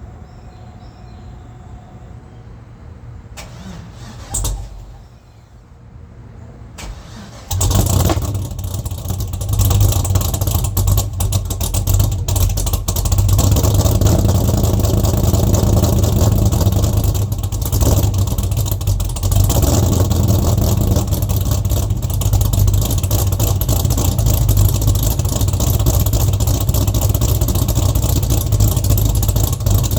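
LS V8 engine swapped into a Mach 1 Mustang starting up: after a brief noise around four seconds in, it fires about seven and a half seconds in and keeps running loudly through its exhaust, with a deep steady rumble.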